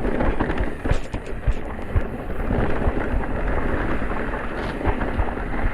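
Wind rumble on the microphone and repeated knocks and rattles from an electric mountain bike riding over a rough trail.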